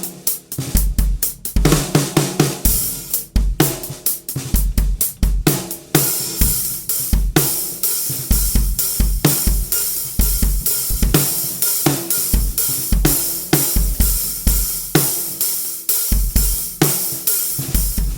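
Drum kit groove with bass drum, hi-hat and cymbals, built around a 14" x 6" London plane wood snare drum tuned very low, unmuffled, with a coated Remo Ambassador batter head. The cymbal wash gets denser about a third of the way in.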